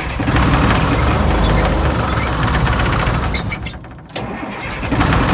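Diesel engine of a 1970 deuce-and-a-half army truck cranking and firing unevenly as it tries to catch on a cold start, with no glow plugs, block heater or ether. It falters about three and a half seconds in and picks up again a moment later.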